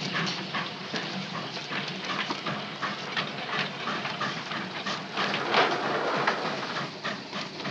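Moving freight train: a steady rolling rumble and rattle, with frequent irregular clanks and knocks, loudest about five and a half seconds in.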